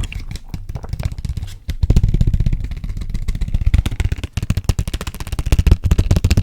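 Fast, aggressive tapping on and close to a sensitive ASMR microphone: a dense, loud run of low thuds and clicks, many each second.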